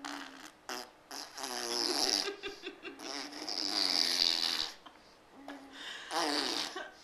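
Baby blowing wet raspberries, buzzing her lips while voicing, in three long stretches: the "dirt bike" motor noise.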